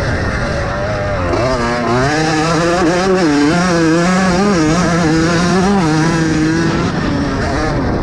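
Vintage motocross bike engine running hard on the race track, its pitch climbing about a second and a half in and then rising and falling repeatedly as the rider works the throttle.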